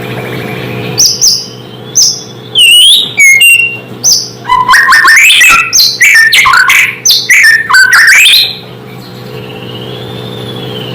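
White-rumped shama (murai batu) singing a loud, varied song of whistles, chirps and rapid note runs that begins about a second in and fades to a soft whistle near the end, over a steady low hum.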